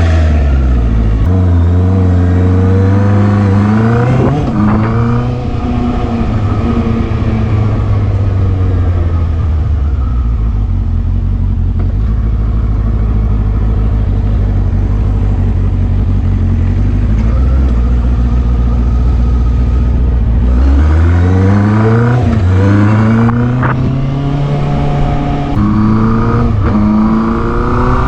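Benda LFC 700's 680cc four-cylinder engine through its stock exhaust, pulling under throttle. It rises in pitch and drops back with a gear change about four seconds in, runs at a steady speed for a long stretch, then rises through two more upshifts in the last few seconds.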